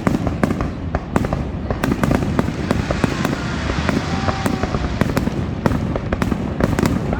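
Fireworks display going off: a rapid string of sharp bangs, roughly three a second, over a dense steady background rumble.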